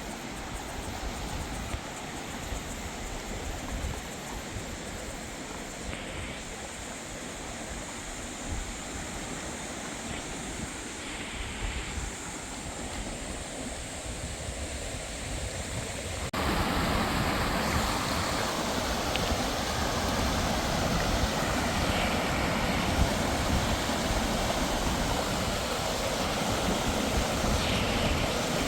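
Steady rush of falling water, a waterfall's constant roar, jumping louder all at once about sixteen seconds in.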